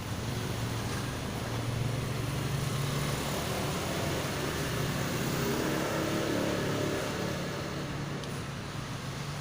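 A motor vehicle's engine heard passing, growing louder toward the middle and then fading, over a steady low hum.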